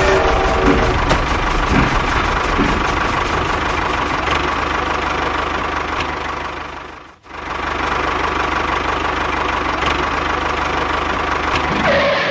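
A motor running steadily with an engine-like rattle. It cuts out for a moment about seven seconds in, then starts again.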